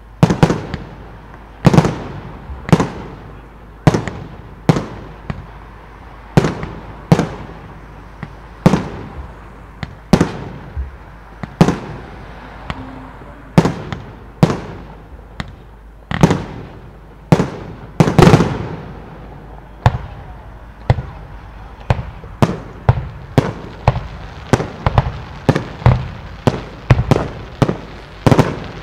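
Professional display fireworks: aerial shells bursting one after another, about one bang a second, each trailing off in a rumbling echo. In the last third the bursts come faster, about two a second.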